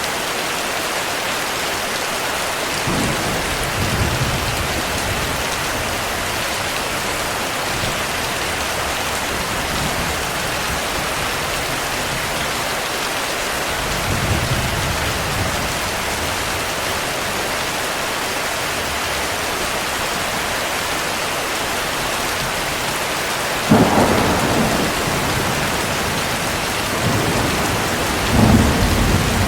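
Steady rain with thunder. Low rumbles roll in twice, then a sharper clap about twenty-four seconds in trails off into rumbling, and another rumble comes near the end.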